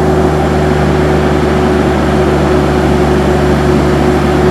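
Heavy truck's diesel engine running steadily at constant speed: a deep, even hum with a steady tone above it.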